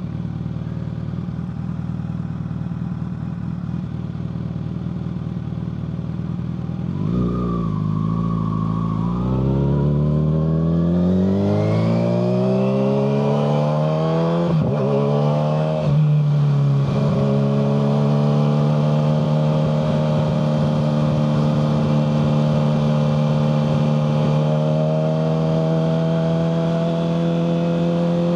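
Kawasaki ZX-6R 636 inline-four running through a Yoshimura full exhaust. It runs low and steady for about seven seconds, then pulls away with the revs climbing, shifts up twice in quick succession around the middle, and settles into a steady cruise.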